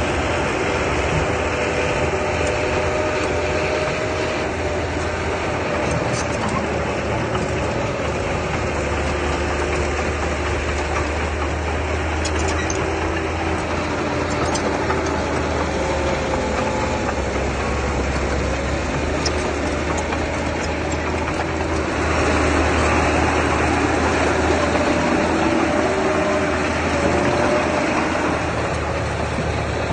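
Diesel engine of an earthmoving machine running steadily under load, its pitch wandering slightly, growing louder about two-thirds of the way through.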